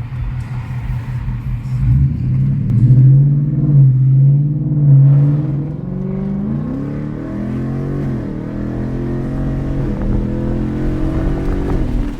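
2024 Mustang GT's 5.0 L Coyote V8 running through a Ford Performance X-pipe with the mufflers deleted. It gets louder under throttle about two seconds in, then its pitch slides down and back up several times through the second half.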